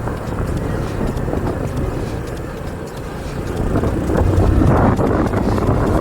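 Motorcycle engine running while riding, with wind buffeting the microphone; it gets louder about four seconds in.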